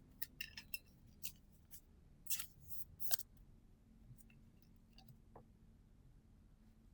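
Trading cards being handled and flicked through by hand: a scattering of light clicks and snaps, a little louder about two and three seconds in.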